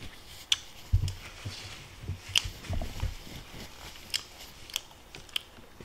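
Close-up chewing and biting of pan-fried beef steak and rice, with irregular sharp clicks and soft low thumps from the mouth.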